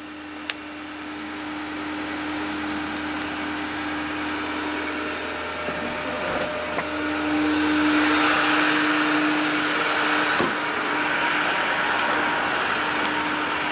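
2010 Ford F550 bucket truck's engine running at a raised idle with the PTO engaged to drive the Altec boom's hydraulic pump: a steady hum with a constant tone, growing louder over the first several seconds.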